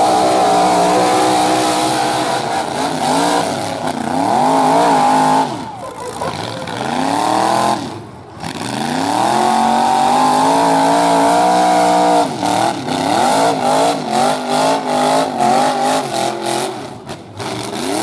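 Full-size derby truck engine revving hard under throttle, its pitch climbing and falling, dropping off twice, then held high for a few seconds before turning into quick on-and-off blips of throttle near the end.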